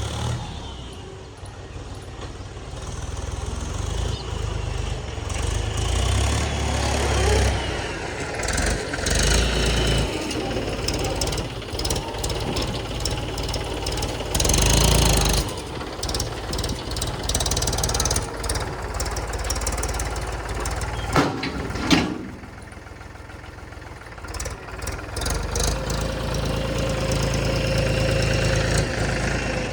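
Mahindra tractor's diesel engine running, its level rising and falling as the loader works sand, with two sharp knocks close together about two-thirds of the way through.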